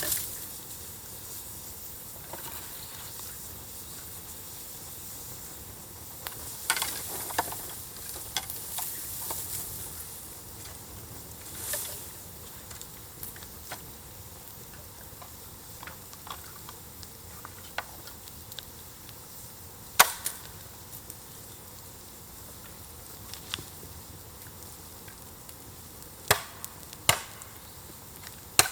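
Campfire burning over embers: a steady hiss with scattered sharp crackles and pops, a few louder ones about two-thirds of the way in and near the end.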